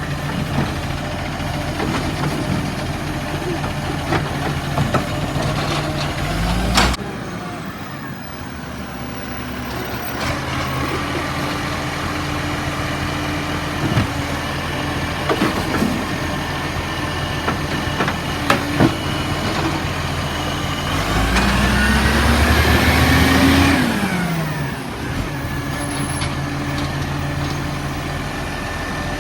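Diesel garbage truck on a green-waste round, its engine idling with scattered knocks. The revs climb and cut off sharply about seven seconds in, then rise and fall again between about 21 and 24 seconds, as when the engine drives the hydraulic bin-lift.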